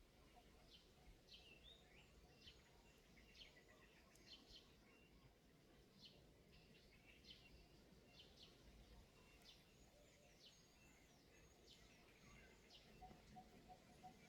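Faint, short, high bird chirps scattered through, over a quiet background hiss. Near the end a faint, even ticking starts, about three ticks a second.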